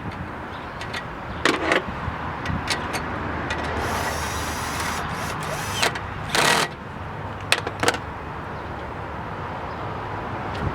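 Steady hiss of wind and passing road traffic, broken by a few sharp clinks and knocks of hand tools and parts being worked on the car's front end. The loudest is a short clattering knock about two-thirds of the way through.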